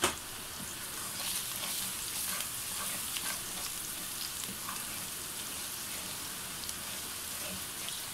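Chopped onions and freshly added ground spices sizzling in hot oil in a metal kadai, stirred with a wooden spoon, with a steady hiss and scattered crackles. A single sharp tap comes right at the start.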